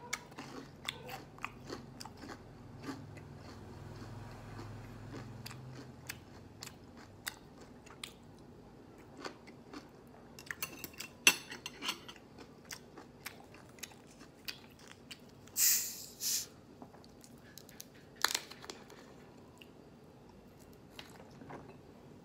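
Close-up crunching and chewing of crispy deep-fried breaded pork, a steady run of small crackly bites, with a couple of louder crunches in the last third.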